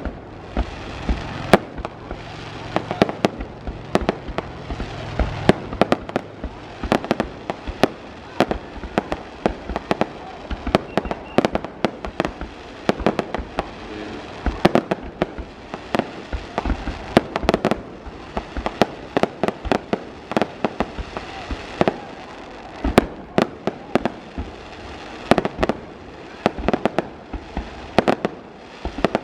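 Fireworks display: an unbroken barrage of sharp bangs and pops, several a second at irregular intervals, with a low rumble of bursts between them.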